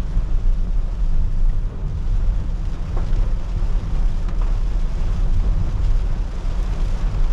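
A car driving in rain: a steady low road and engine rumble under an even hiss of rain and wet tyres.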